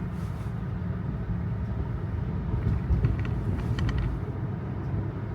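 Steady tyre and road rumble heard inside the cabin of a Tesla electric car driving on wet roads, with a few faint short ticks about three to four seconds in.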